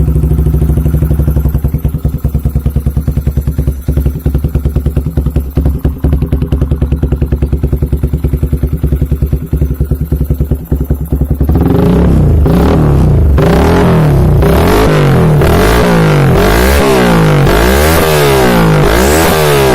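Yamaha Vixion single-cylinder engine through a KOU aftermarket exhaust, idling with a steady pulsing beat, then, about eleven seconds in, revved again and again in quick blips, the pitch climbing and dropping each time.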